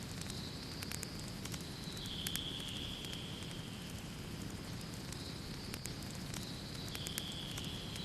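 Wood fire in a fireplace crackling, with scattered sharp pops over a steady low rumble of the flames. A thin high whistling tone runs alongside, dropping in pitch about two seconds in, fading, then returning and dropping again near the end.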